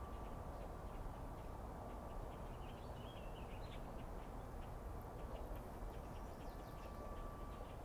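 A steady low rumble of outdoor background noise, with faint bird chirps and ticks over it and one short chirp about three seconds in.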